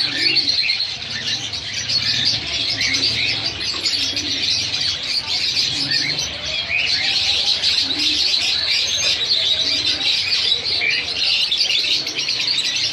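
A flock of budgerigars chattering and chirping continuously, many short high calls overlapping.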